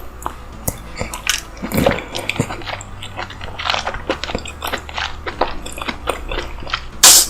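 Close-miked mukbang eating sounds: a person chewing and biting food with a stream of wet smacks and clicks. A sharp, very loud noise comes near the end.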